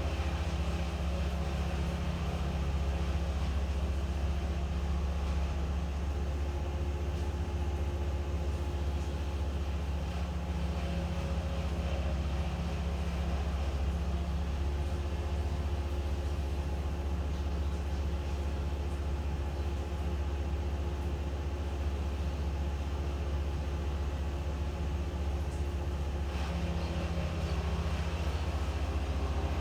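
An engine running steadily at constant speed, a low even drone with no changes in pitch or load.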